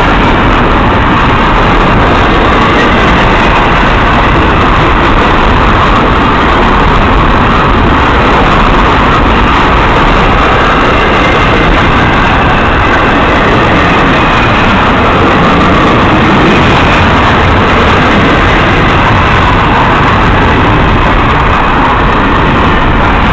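Canadian Pacific intermodal freight train passing close by, a loud, steady, unbroken noise of the train rolling along the rails.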